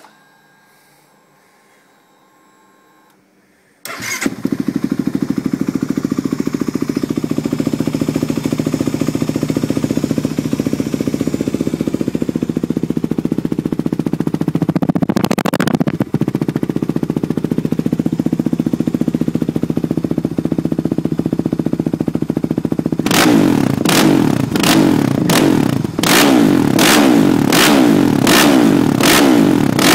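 Kawasaki KFX450R quad's single-cylinder four-stroke engine with a Duncan Fatboy 4 aftermarket exhaust, really loud. It starts about four seconds in and idles steadily, then is revved in a rapid series of short throttle blips near the end.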